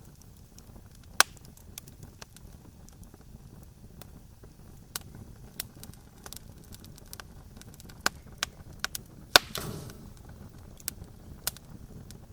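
Campfire crackling: irregular sharp pops and snaps over a low steady rumble. The loudest pop comes a little past nine seconds in, followed by a brief hiss.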